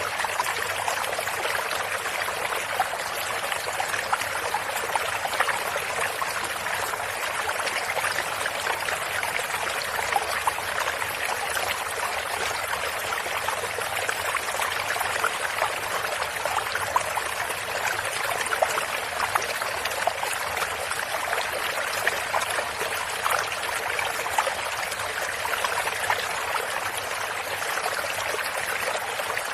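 Stream water running steadily over rocks, a continuous babbling trickle with small splashes throughout.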